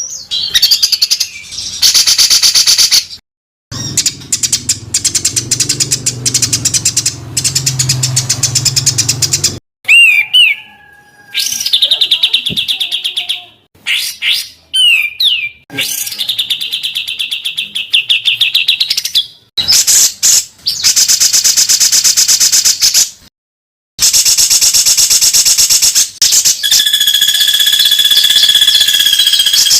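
Caged songbird tutor-song recordings: dense, rapid-fire harsh chattering trills repeated in phrases, spliced clip after clip with abrupt cuts between them. A low hum runs under one stretch early on.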